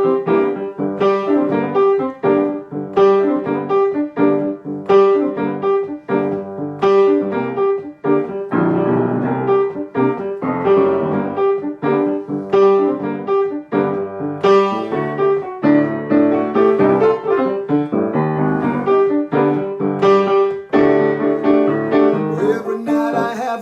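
Solo piano playing the introduction of a song: chords struck on a steady pulse of about one a second, with one note repeated through them.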